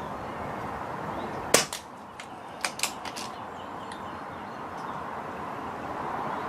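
.177 pre-charged pneumatic air rifle firing a single shot about a second and a half in, a sharp crack, followed by a few lighter mechanical clicks, with steady wind noise on the microphone.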